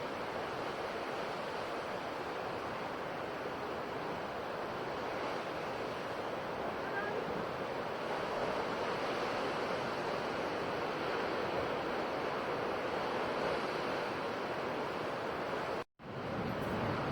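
Sea waves washing onto a shore, a steady rushing surf that grows a little louder about halfway through. Near the end the sound cuts out for an instant and comes straight back, an edit splice in the recording.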